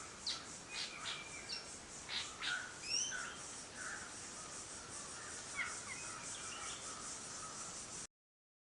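Birds calling: a loose series of short whistles, chirps and quick rising notes, busiest in the first three seconds, over a steady, evenly pulsing high hiss. Everything cuts off about eight seconds in.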